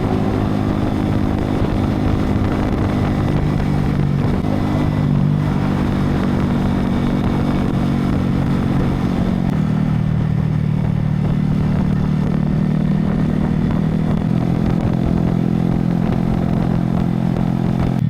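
Motorcycle engine running steadily while riding, over wind noise. The engine note shifts pitch a couple of times as the speed changes.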